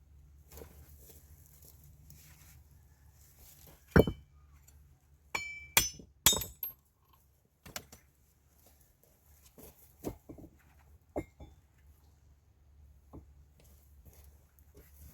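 Hard objects clinking and knocking together. One sharp knock comes about four seconds in, then a quick cluster of clinks with a brief bright ring, followed by a few fainter knocks.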